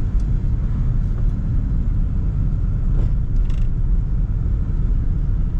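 Steady low rumble of a Toyota Sprinter AE110 on the move, engine and road noise heard from inside the cabin, with a couple of faint ticks about halfway through.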